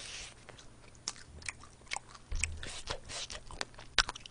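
Close-up chewing and biting of crispy fried chicken wings: a string of short, sharp crackles of the fried coating, with the loudest crunch near the end.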